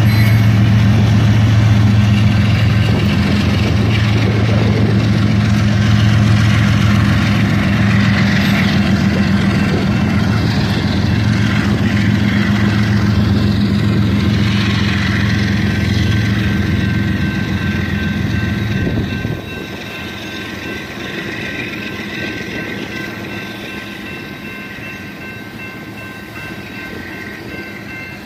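Freight train passing close by: the diesel-electric locomotives' engines give a loud, steady low rumble, which drops off abruptly about two-thirds of the way through as they pass. After that the coal hopper cars roll past with a quieter, even rolling noise.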